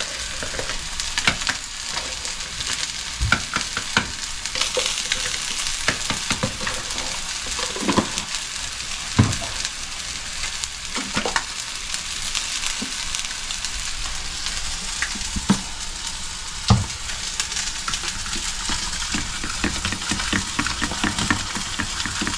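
Tuna burger patties frying in olive oil in a cast-iron skillet over medium-high heat, a steady sizzle. A spoon stirring sauce in a small bowl and bottles being handled add scattered sharp clicks and taps, a few louder ones standing out.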